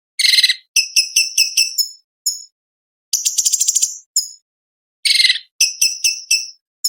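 Cucak cungkok, a leafbird, singing a fast, varied song of sharp, high chirps in quick runs, with a harsh buzzy burst near the start and again about five seconds in, and a rapid trill a little after three seconds.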